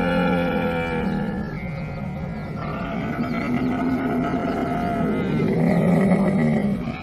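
Camel vocalising with a long, low, gurgling grunt that swells again about five seconds in and cuts back sharply at the end.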